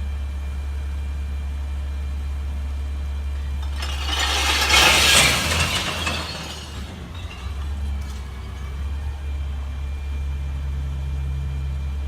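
CNG glass recycling truck idling steadily, with a loud crash of glass bottles being dumped about four seconds in that lasts around two seconds.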